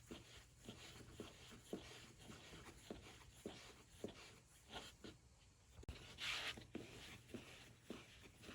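Quiet, light knocks or scrapes repeating about twice a second, with a longer scratchy stroke a little after six seconds in.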